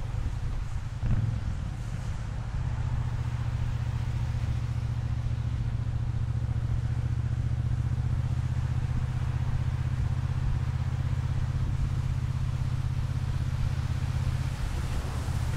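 Triumph Bonneville T120 parallel-twin motorcycle engine running at a steady engine note while riding, with a short blip about a second in.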